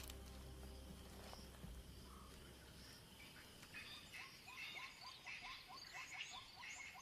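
Faint birds calling in the bush: a rapid series of short, repeated chirps with higher calls over them, starting about three seconds in, after a low hum fades out.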